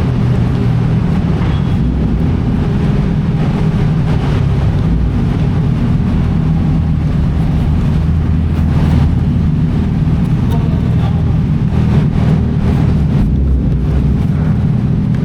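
Steady low mechanical drone on a ferry's vehicle deck, made up of several steady hum tones, with a few short clicks partway through.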